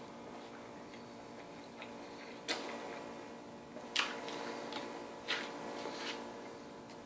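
A person eating a large burger sandwich fast: three sharp wet mouth smacks or clicks about a second and a half apart, the loudest about four seconds in, with fainter chewing noises between them over a steady hum.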